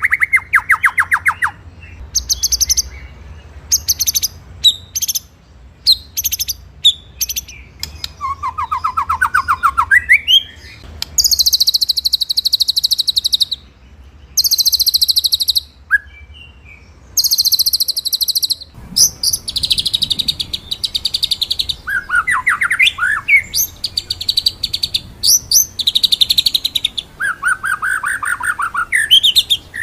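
White-rumped shama (murai batu) singing in phrases: fast rattling trills of repeated notes, mostly high-pitched with some lower ones, and a few quick upward-sliding notes, broken by short pauses. This is the rolling ('ngeroll') and sharp 'shooting' ('nembak') song used as a training recording for other shamas.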